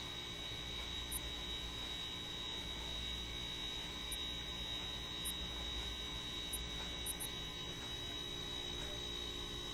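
Steady electrical hum with a thin, high, steady whine above it, and a few faint ticks.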